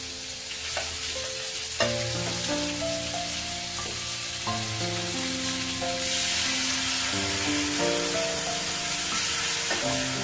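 Sliced beef and garlic sizzling in a hot steel wok, with a knock about two seconds in and a metal spatula stirring. The sizzle grows louder about six seconds in, when water is poured into the wok.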